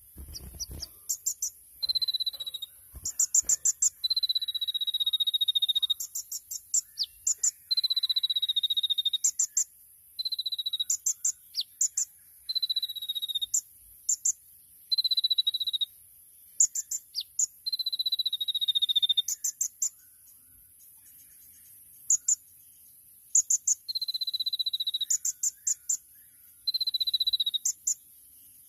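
A male olive-backed sunbird (kolibri ninja) singing its 'tembakan' song: quick clusters of rapid high chips alternate with held, slightly falling trilled notes about a second or two long, repeated over and over. A steady high hiss runs underneath.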